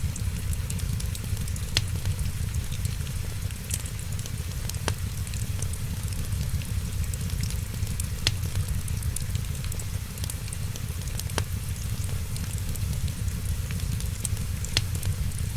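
Wood fire crackling in a fireplace: a steady low rumble with a fine hiss of small crackles and a sharp pop every few seconds.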